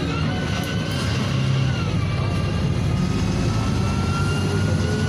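NefAZ 5299 city bus under way, heard from inside: its Cummins ISBe diesel runs steadily beneath a high whine that rises, dips about two seconds in, then climbs again as the bus gathers speed.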